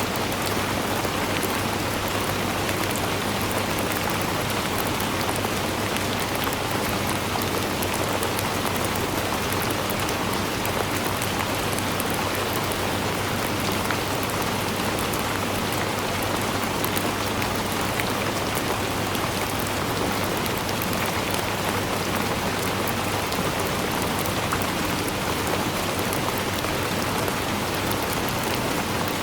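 Steady rain falling, an even hiss dotted with small drop ticks.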